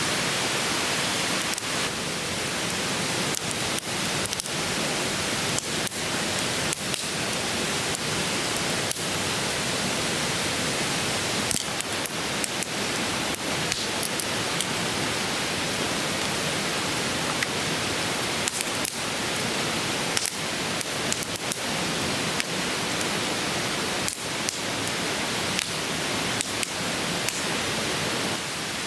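Steady rush of a clear stream, with irregular sharp crackles and pops from a wood campfire.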